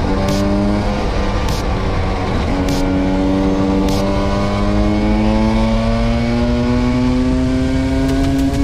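Vespa V50 scooter's two-stroke engine running under way. The revs jump about two seconds in, then climb slowly and steadily.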